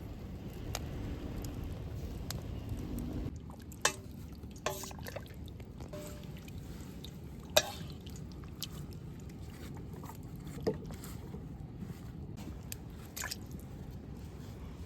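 Camp cooking handling sounds: a low steady rush that drops away about three seconds in, then scattered light clinks and knocks, several with a short ringing note like metal or glassware being set down or tapped.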